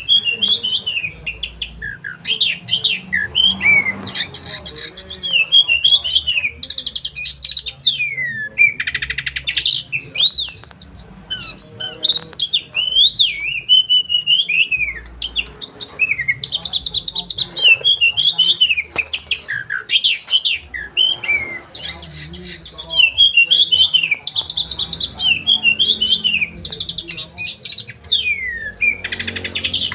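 Oriental magpie-robin (kacer) singing a loud, varied song of sharp whistled notes and gliding phrases, broken by bursts of rapid high trills, with hardly a pause.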